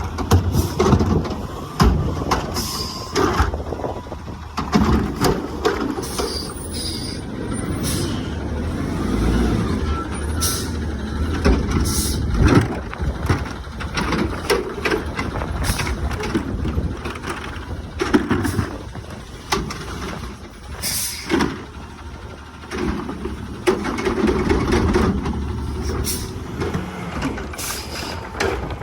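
Garbage truck working: its diesel engine runs low and steady under repeated sharp knocks and bangs and short hisses of air.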